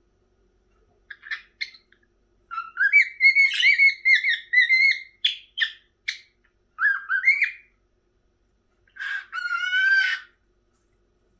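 Pet cockatiel whistling in short warbling phrases broken by sharp chirps. A long wavering whistle sits in the middle of the clip, and a last phrase comes near the end.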